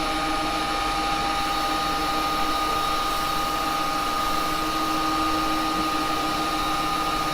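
Axminster wood lathe running steadily: an even motor hum and whine with a few constant high tones, no change in speed.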